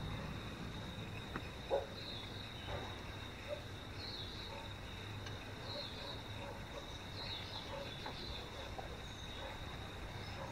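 Faint bird calls, short chirps coming every second or two, over a steady high-pitched hum and low background noise.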